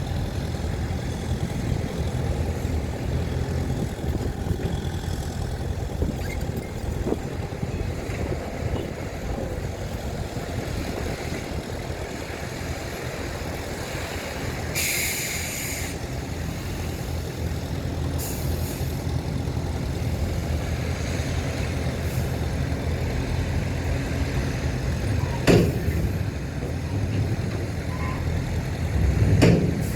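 Heavy diesel engines of a bulldozer and dump trucks running steadily. About halfway through comes a sharp air-brake hiss lasting about a second, then a shorter hiss, and two loud clanks of metal near the end.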